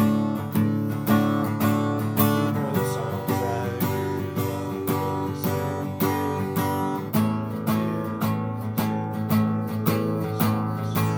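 Acoustic guitar strummed in a steady rhythm, about two strokes a second, playing chords.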